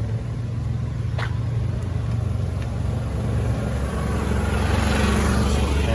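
A car's engine rumbling as the car drives slowly past, growing louder to a peak about five seconds in.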